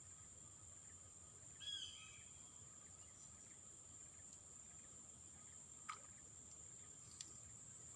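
Quiet outdoor ambience with a steady high-pitched insect drone, broken by a short bird call about two seconds in and a faint chirp near the end.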